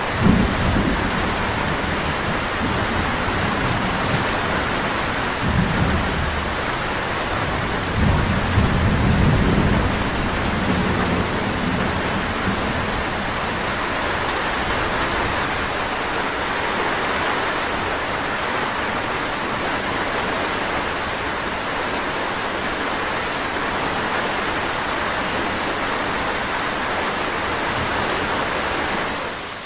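Steady, heavy rainfall hissing on surfaces. Three low rumbles rise under it in the first ten seconds, the longest about eight seconds in.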